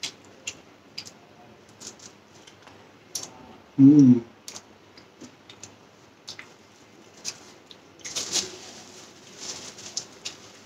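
Close-miked eating: soft clicks and smacks of chewing and mouth sounds, with a short, loud hummed "mm" about four seconds in and a rougher rustling, crunchy stretch near the end.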